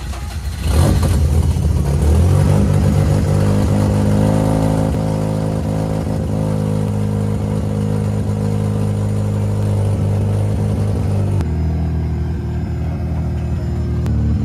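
Mazda RX-8's 1.3-litre two-rotor rotary engine starting about a second in and settling into a steady fast cold idle, running through a newly fitted direct-fit catalytic converter.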